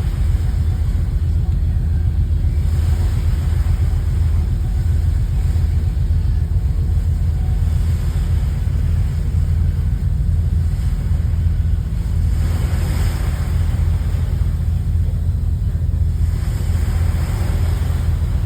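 Ferry's engines running steadily, a deep continuous rumble. A hiss swells up twice, about two-thirds of the way through and again near the end.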